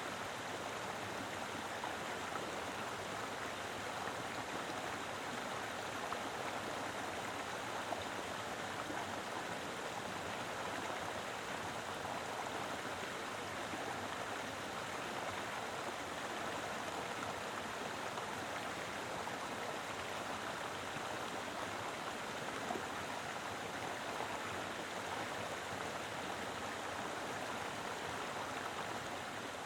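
Mountain river flowing steadily over rocks: a full, even rush of water with small irregular splashes and gurgles.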